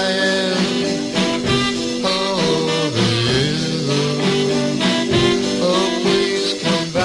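Instrumental break of a 1958 R&B / rock-pop vocal-group 45 record: the band plays with a swing feel and no lead vocal.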